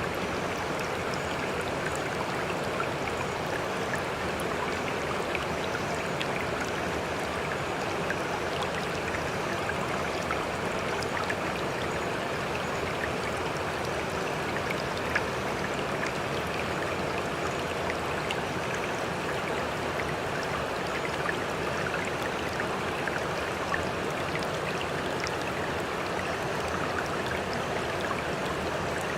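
Sea water washing steadily with a continuous rush, scattered small trickles and splashes, and one slightly sharper splash about halfway.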